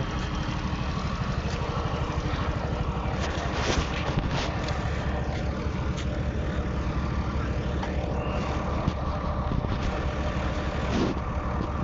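Truck engine running steadily with a low rumble, heard from inside the cab, with brief louder whooshes of passing noise about four seconds in and near the end.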